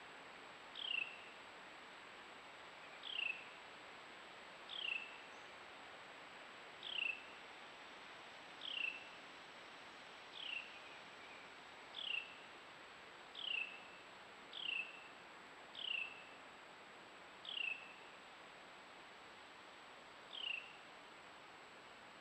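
A bird giving a short, high call that falls in pitch, repeated about a dozen times at uneven gaps of one to three seconds, over faint steady background hiss.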